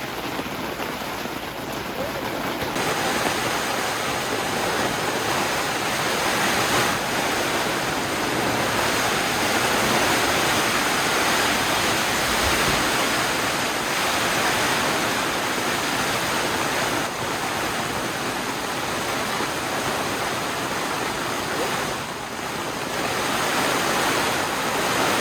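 Heavy downpour: a dense, steady hiss of pouring rain that gets louder about three seconds in.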